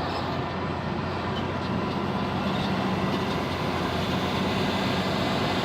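Steady hum of a car's engine and tyres heard from inside the cabin, an even noise with no sharp events.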